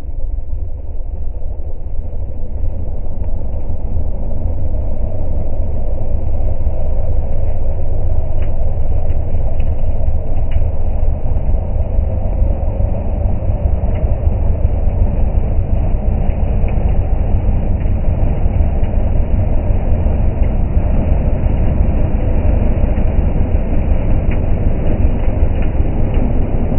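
Steady low rumble of a running vehicle, with a few faint ticks.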